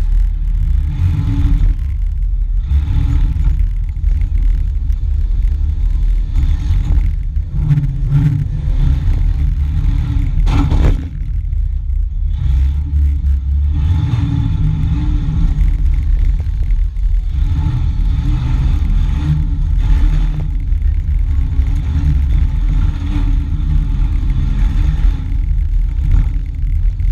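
Demolition-derby vehicle's engine running hard, heard from inside the stripped cabin as a loud, uneven rumble that rises and falls with the throttle. A sharp bang of a collision comes about ten seconds in.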